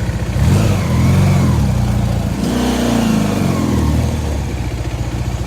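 Motorcycle engine idling with a steady low pulse. Twice an engine note rises and falls in pitch, each swell lasting about a second and a half.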